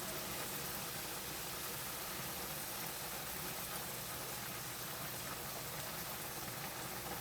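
T-bone steak sizzling gently in butter in a pan on medium heat, a steady even crackle.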